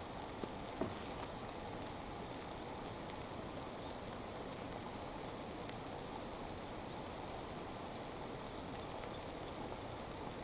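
Steady rain falling: an even hiss, with two faint taps about half a second and a second in.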